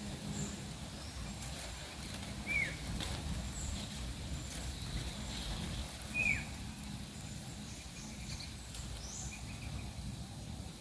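Sooty-headed bulbul giving two short calls that drop in pitch, about two and a half seconds and six seconds in. Faint high chirps from other small birds and a steady low background rumble run beneath.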